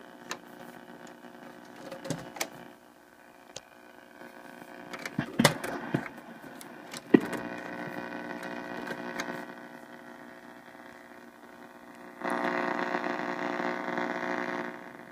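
Mopar AM car radio tuned between stations: faint static hiss with steady whistling tones and scattered crackles. Near the end a louder stretch of hiss comes in for about three seconds, then drops away.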